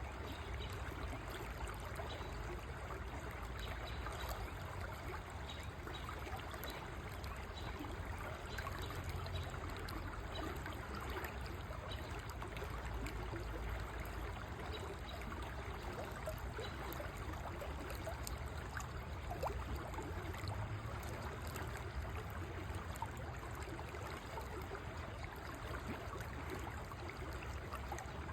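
River water flowing steadily, an even rushing and trickling with a low rumble underneath.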